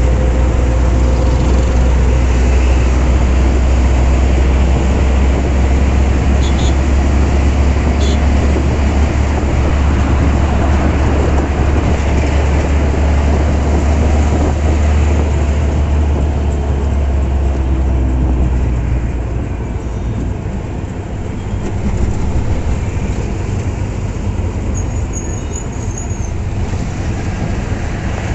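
Road and engine noise heard from inside a moving auto-rickshaw in highway traffic: a loud, steady low rumble that eases a little over halfway through.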